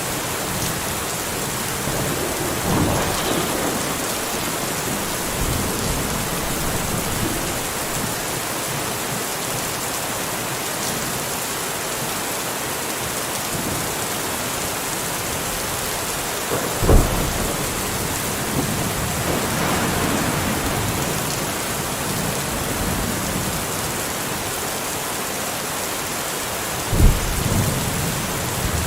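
Steady rain with thunder: rolling rumbles a few seconds in and again past the middle, and two sharp, sudden claps, one a little past halfway and one near the end.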